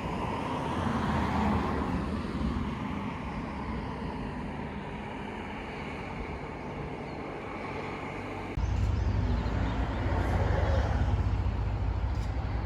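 Steady road and engine noise of a car being driven. About two-thirds of the way through it changes abruptly to a louder, deeper rumble.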